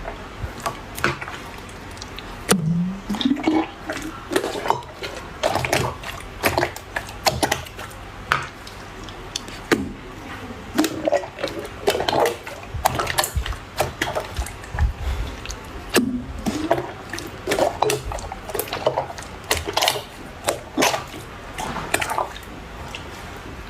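Slime being squeezed and kneaded by hand, squishing with many irregular small pops and squelches.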